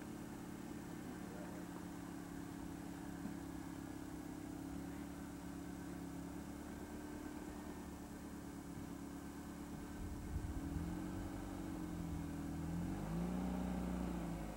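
Car engine idling steadily. From about ten seconds in it gets louder and its pitch rises and falls, sweeping up once near the end, as the engine is given some throttle.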